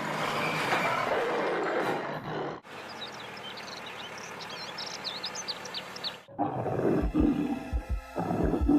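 A big-cat roar sound effect, followed by a few seconds of birds chirping, then regular low thumps with a steady tone near the end.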